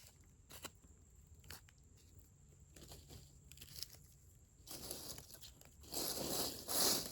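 Dry twigs and plant material being handled, rustling and crunching: a few faint clicks at first, then louder crackling rustles in the last couple of seconds.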